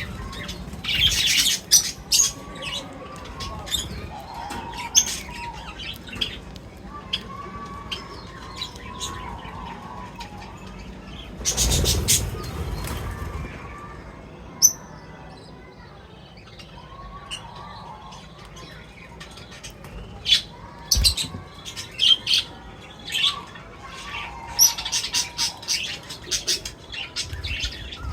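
Small birds chirping and squawking at a feeder. Many short high chirps and sharp clicks come in clusters, with quieter warbling calls underneath, and there is one louder rushing noise about twelve seconds in.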